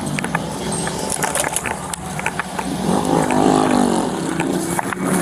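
Dirt bike engine revving, its pitch rising and falling and growing louder from about three seconds in, with scattered short clicks.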